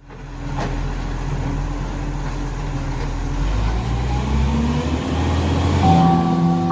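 Heavy truck engine running, its pitch rising about halfway through as it speeds up.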